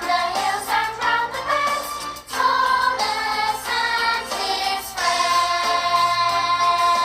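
A song with a group of voices singing over instrumental backing, ending on a long held note.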